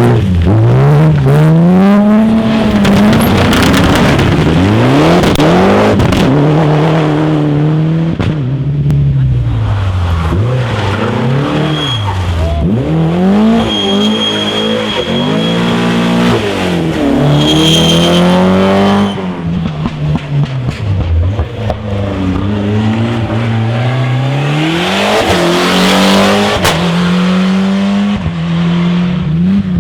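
Rally cars driven at full attack, one run after another: engines revving hard, the pitch climbing and dropping with each gear change and lift as the cars pass.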